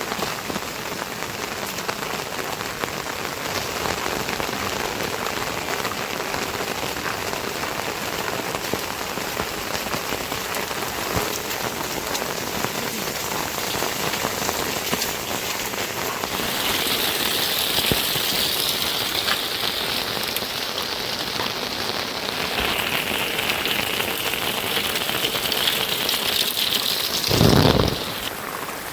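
Steady rain falling on surfaces. A higher hiss joins a little past halfway, and a brief louder swell comes near the end.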